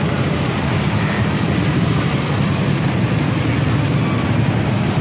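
Loud, steady low rumble with a noisy haze over it, from the street around the parked sound-system trucks. There are no clear beats or pitch changes.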